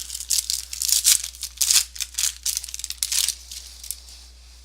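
A trading-card pack being opened: its wrapper crinkling and the cards rustling in a quick series of sharp swishes that die down about three and a half seconds in.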